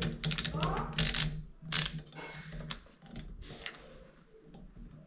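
Sharp metallic clicks, knocks and scrapes of shower valve parts and tools being handled and fitted together, several loud ones in the first two seconds, then fainter taps.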